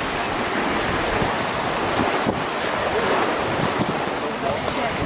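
Steady rushing noise of strong, gusty wind buffeting the microphone, mixed with surf washing on the beach.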